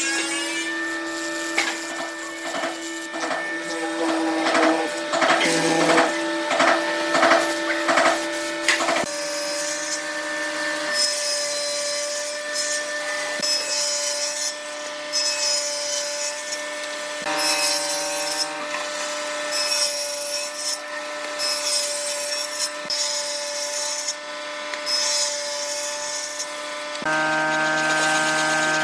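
Power tools working wood: a steady whine with repeated rasping strokes as the wood is sawn or sanded. The pitch and character change abruptly several times.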